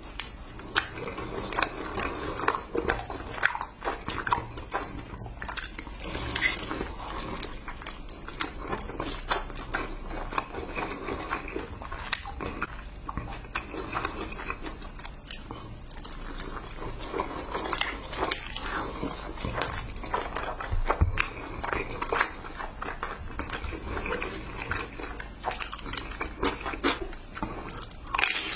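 Close-miked eating: biting and chewing noodle-stuffed spring rolls and sauce-coated fried chicken, with a dense run of small wet clicks and smacks from the mouth.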